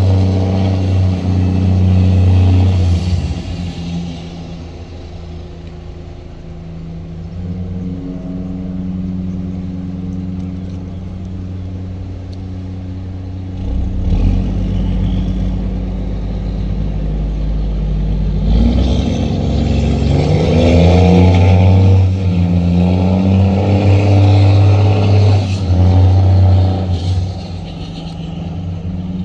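Tugboat diesel engines running under load with a steady low hum. The engines are loud at first, quieter for a stretch, then loud again about two-thirds of the way through, their pitch wavering upward briefly around then.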